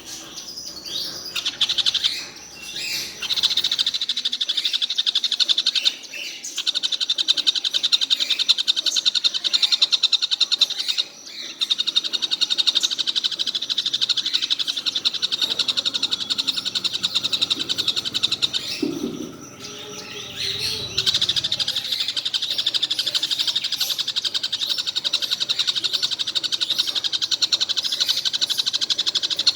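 A kingfisher (tengkek buto) calls in long runs of very rapid, high chattering notes, broken by a few short pauses.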